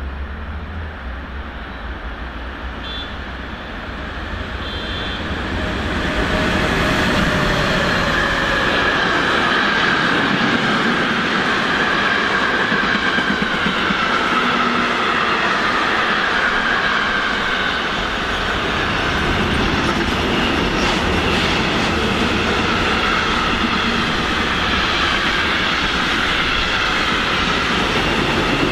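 Freight train of flat wagons and tank wagons rolling past, its rumble swelling about five seconds in and then holding steady. A wavering high-pitched squeal rides over the rolling noise.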